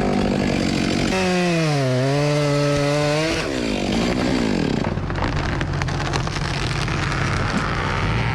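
Chainsaw running at full throttle while cutting: its pitch drops and holds lower as the chain loads in the wood, then it revs up and down. A steadier, lower engine hum with scattered clicks carries on afterward.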